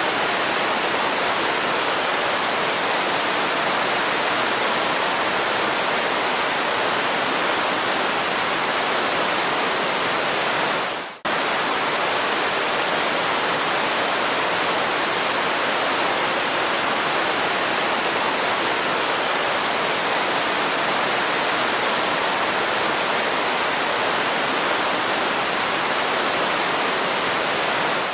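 Waterfall: a steady rush of falling water. About eleven seconds in, the sound briefly fades out and cuts straight back in.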